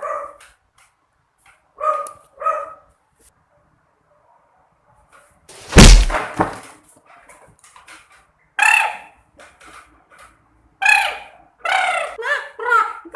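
A performer's voice doing a mouth-made sound effect: short pitched vocal calls in ones and twos, with one loud blast about six seconds in.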